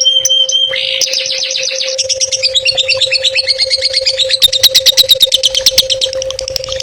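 A songbird singing a fast, varied song: a brief high whistle, then rapid trills and chattering runs of notes that get louder about four and a half seconds in, over a steady faint hum. This is masteran, a bird-song recording used to train cendet (long-tailed shrikes) to sing.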